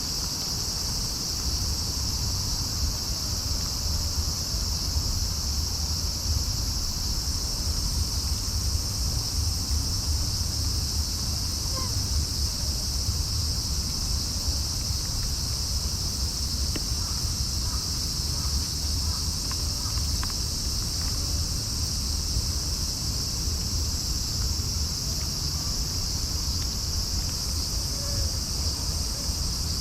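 Steady, high-pitched chorus of night insects such as crickets, running without a break over a continuous low rumble.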